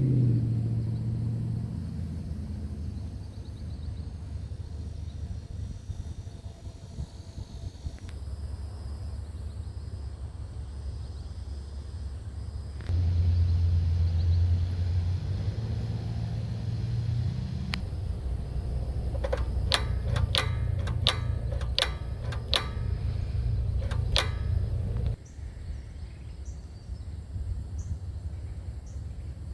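Tecumseh HS40 4 hp two-stroke single-cylinder engine of a 1969 Lil Indian mini bike running, its low note changing abruptly in level several times and loudest from about 13 to 25 seconds in. A run of about ten sharp clicks comes partway through.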